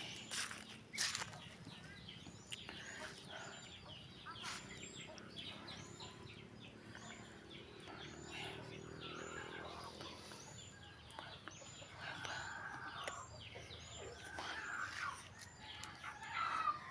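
Songbirds calling: a short, high call repeated about twice a second, with other chirps mixed in.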